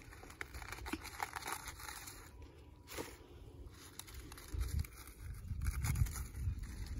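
Lettuce being cut and pulled by hand: crisp crackling and tearing of leaves. In the second half there is also a low rumble.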